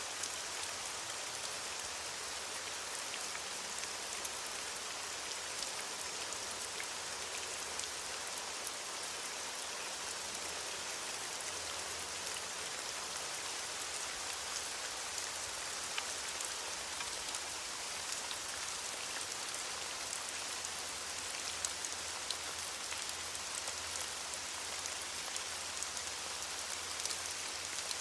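Steady rain falling on leaves, a dense even hiss with the fine ticks of individual drops.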